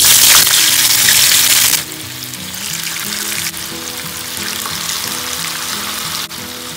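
Cubes of tofu dropped into hot cooking oil in a wok: a loud burst of sizzling for about two seconds, then a softer, steady frying sizzle.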